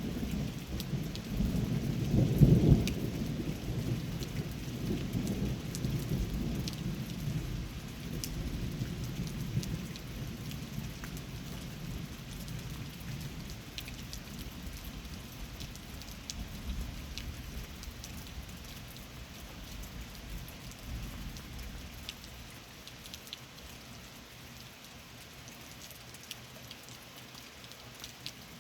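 Thunder rumbling with its loudest crack about two and a half seconds in, then rolling on and slowly fading over some twenty seconds. Steady rain falls throughout, with scattered drips.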